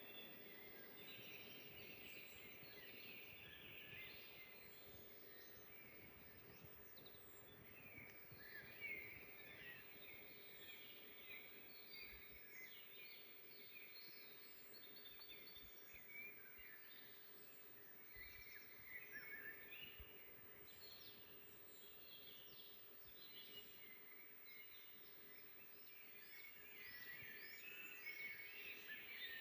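Several forest songbirds singing and calling at once, a busy mix of short chirps, trills and whistles, over a faint steady hiss and a low hum.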